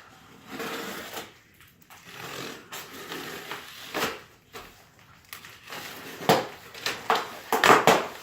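Cardboard shipping box being opened by hand, with tearing, rustling cardboard and several sharp knocks that are loudest near the end.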